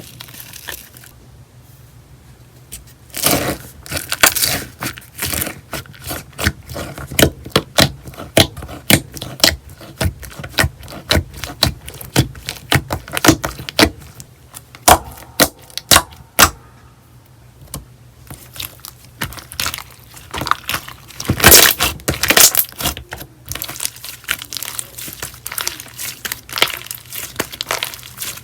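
Slime being squeezed and poked by hand, giving irregular sharp clicks and crackly pops, a few a second, with two quieter stretches and a dense burst of crackling a little past the middle.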